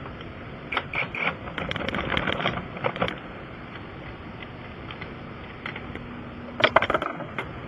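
Scattered metallic clicks and clanks from handling tools during a tire repair, in two clusters: one to three seconds in and again near the end, over a faint steady hum.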